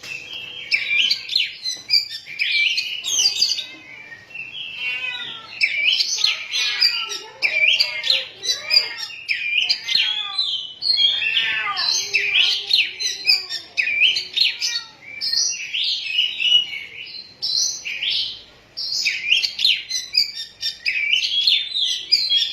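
Oriental magpie-robin (kacer poci) singing a long, continuous song of rapid, varied whistles and chirps, pausing briefly twice.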